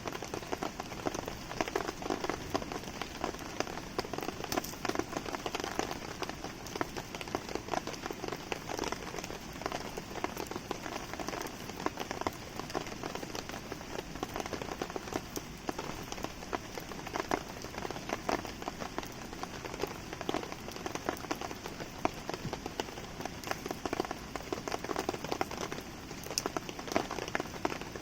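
Steady rain falling on surfaces around a campsite, a dense even hiss scattered with many small sharp ticks of individual drops.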